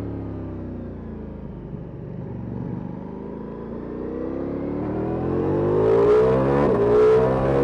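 Ducati Multistrada V4S's V4 engine through an Akrapovic exhaust, revs falling off as the bike slows, then rising hard under acceleration to its loudest near the end, with a quick drop and pick-up in pitch between, as at a gear change.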